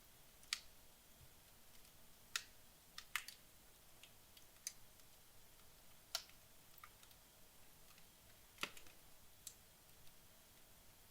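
Wood logs burning in a fireplace, crackling with about ten sharp, irregular pops and snaps over a faint steady hiss.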